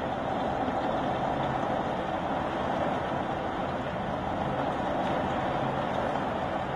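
Heavy downpour with strong wind: a steady, even wash of rain noise with no breaks.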